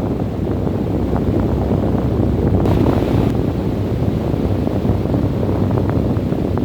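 Steady wind, mostly low and dense, with faint scattered crackles and a short brighter hiss about three seconds in.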